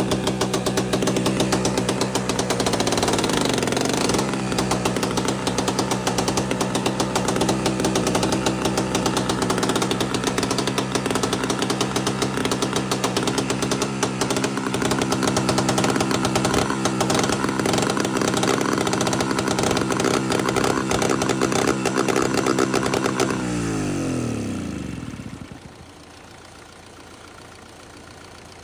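MTZ-50 tractor engine running at a steady speed. About 23 seconds in it is shut off and spins down, the pitch falling over a couple of seconds, leaving only a much fainter steady hum.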